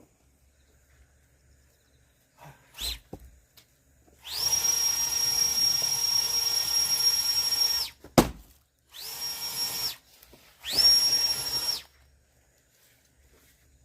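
A power tool's electric motor whining up to speed and running at a steady high pitch, in three runs (a long one of about four seconds, then two short ones), with a sharp knock between the first and second runs.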